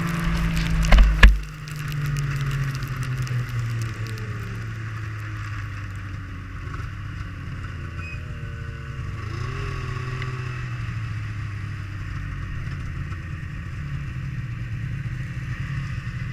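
Arctic Cat F7 EFI snowmobile's two-stroke engine running, with a couple of loud knocks about a second in. After the knocks the engine drops to a lower, steady speed.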